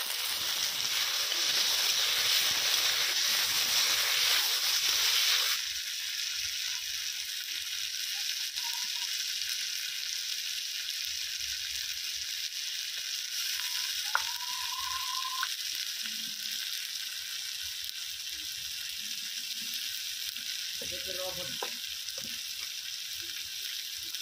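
Onions and tomatoes sizzling in hot oil in an iron kadai as they are stirred with a spatula. The sizzle is loudest for the first five seconds or so, then settles to a softer, steady hiss.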